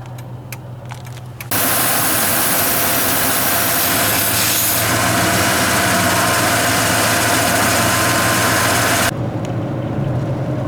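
Car engine of a 1995 Ford 302 V8 running steadily, heard from inside the moving car, with faint regular ticking for the first second and a half. Then a loud, even rushing noise starts suddenly and cuts off about nine seconds in, leaving the engine hum.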